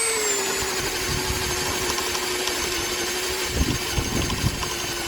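Baur 20-volt cordless drill running a spade bit through a wooden board: a steady motor whine whose pitch sags a little as the bit bites, with a few low knocks from the bit catching in the wood about two thirds of the way through.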